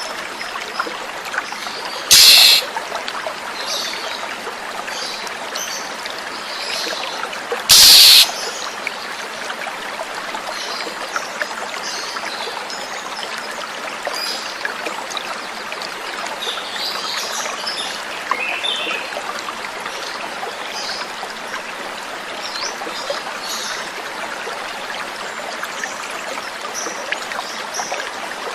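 Steady flowing water, like a small stream trickling, with faint scattered chirps of oriental magpie-robins (kacer) throughout. Two loud, short, harsh bursts stand out, about two seconds and eight seconds in.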